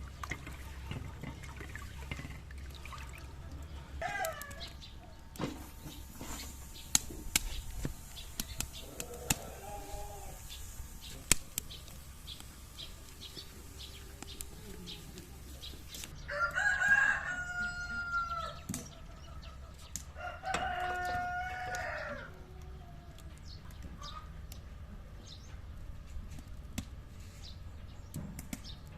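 A rooster crowing twice, about sixteen and twenty seconds in, each crow a long call with a drawn-out ending. Fainter short calls and a few sharp light knocks come earlier.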